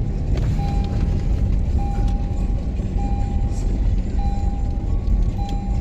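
Low rumble of a running vehicle, with a short electronic beep repeating evenly about once every second and a bit.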